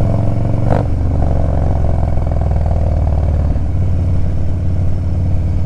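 2015 Harley-Davidson Street Bob's 103 cubic-inch V-twin with a Fab28 exhaust, running steadily under way in town traffic. Its note changes about three and a half seconds in.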